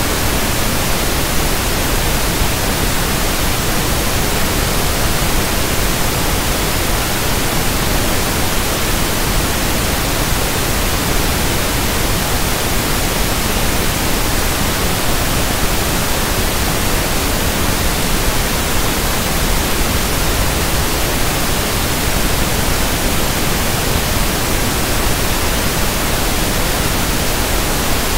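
Synthetic pink noise (1/f noise): a steady, even hiss with no change in level or character.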